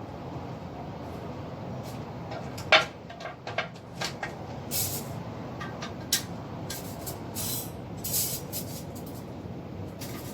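Household items being handled: a sharp knock, several lighter clicks and a few short hissing or rustling bursts, over a steady low hum.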